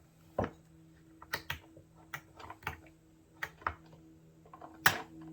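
Irregular sharp metallic clicks and knocks from the gears and selector of an opened Peerless 206 transaxle being moved and checked by hand, with the loudest knock near the end.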